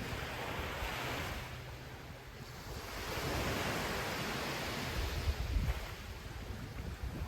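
Ocean surf washing onto a beach: a wave rushes in about a second in, and a longer one from about three seconds, with wind buffeting the microphone.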